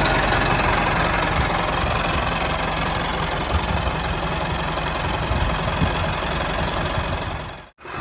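Small motor of a handmade miniature tractor running steadily with a rattling, engine-like rumble. The sound cuts out abruptly for a moment near the end.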